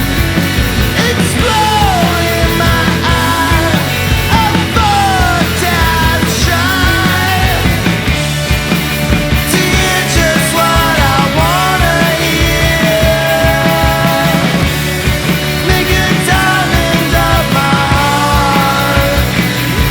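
Rock band music with a full band sound and a melody line that bends and slides in pitch.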